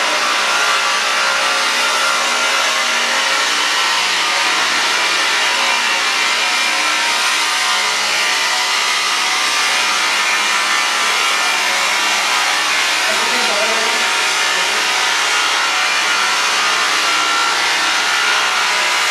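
Weaving loom machinery running: a loud, steady, dense mechanical noise of wooden and metal parts working, with faint voices underneath.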